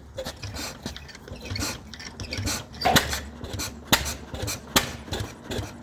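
Vintage 3 hp Anderson stationary engine starting up: a low rumble with irregular metallic clatter and clicks, and sharp louder knocks roughly once a second from about three seconds in.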